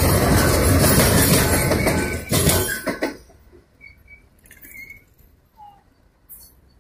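Freight train of covered hopper wagons rolling past close by, a loud steady rush of wheels on rail with a few sharp clacks as the last wagon's wheels go by. The noise cuts off about three seconds in, leaving a quiet background with a few faint chirps.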